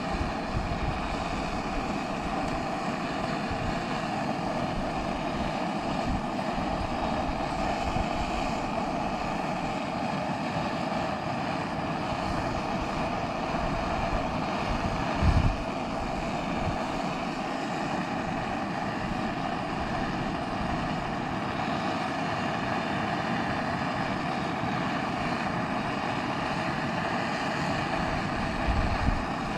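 High-output Primus gas burner running at full flame with a steady rushing hiss. A short low thump comes about halfway through.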